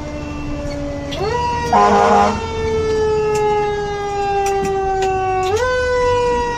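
Fire engine siren wailing, its pitch slowly falling and then quickly pushed back up, about a second in and again near the end. A short air horn blast about two seconds in is the loudest sound.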